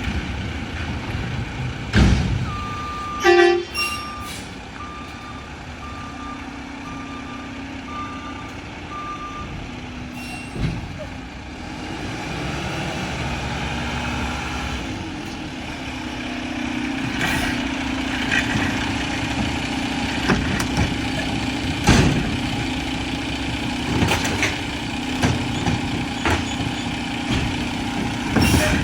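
Mack LR garbage truck's backup alarm beeping about once a second for several seconds near the start, over its running diesel engine. Later the engine runs louder and steady, with several sharp clanks and bangs.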